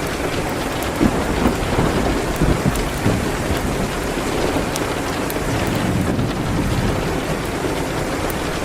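Steady rain on a window, an even hiss, mixed with a crackling wood fire: scattered sharp snaps, with a few louder pops between one and three seconds in.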